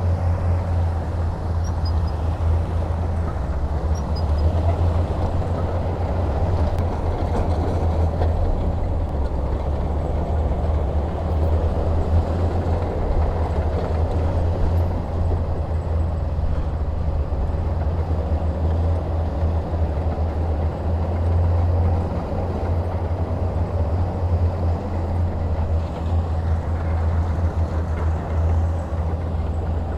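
Heavy diesel engine running steadily with a deep, constant low rumble.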